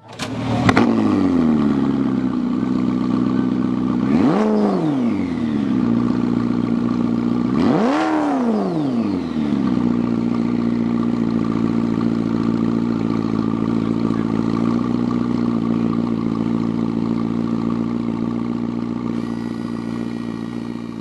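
A car engine starts up, flares and settles to idle. It is blipped twice, about four and eight seconds in, with the pitch rising and falling each time, then idles steadily.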